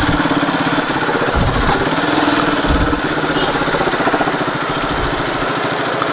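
KTM Duke 200's single-cylinder engine running steadily under way, its firing pulses heard as a fast even beat. Low gusts of wind buffet the microphone now and then.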